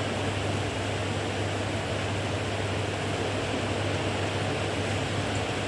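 Steady rain falling, an even hiss with no breaks, over a low steady hum.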